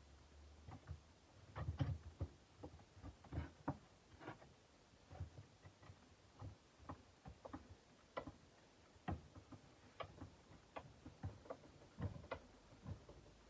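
Faint, irregular clicks and light taps, a few a second and unevenly spaced, from hand work on a kukri blade.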